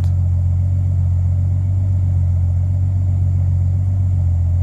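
Turbocharged BMW M52B28TU 2.8-litre straight-six idling steadily at about 900 rpm after warming up, a low, even rumble. The owner suspects the camshafts were not timed correctly.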